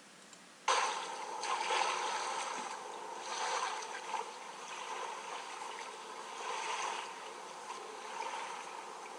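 Outdoor water noise, a fluctuating rush of water, cutting in abruptly under a second in after a brief near silence.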